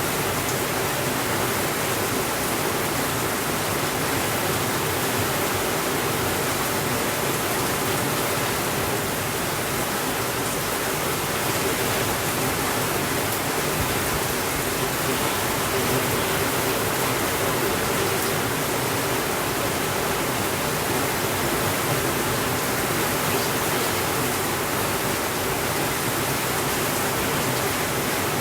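Steady rainfall, an even, unchanging hiss with no thunder.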